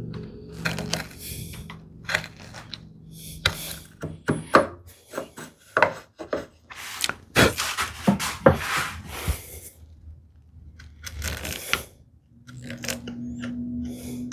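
Hand gouge paring wood out of a curved groove: a run of short, irregular scraping cuts with a few sharp clicks, which pause briefly after the middle and then pick up again.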